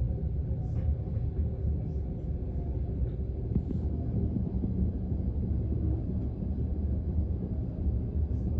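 Steady low rumble of a Frecciarossa ETR 500 high-speed train in motion, heard inside a passenger coach, with a few faint clicks.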